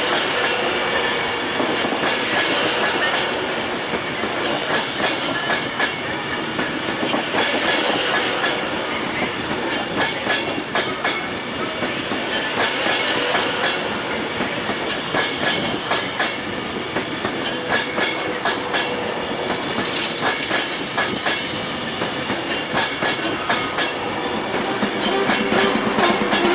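Train running along the track, with a steady rumble and many rapid clicks of wheels over rail joints.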